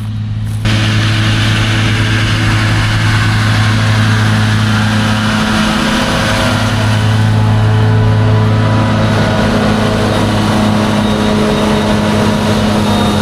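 Heavy diesel farm machinery running close by at a forage harvest: a steady engine drone, joined just under a second in by a sudden, loud, even rush of mechanical noise that carries on throughout.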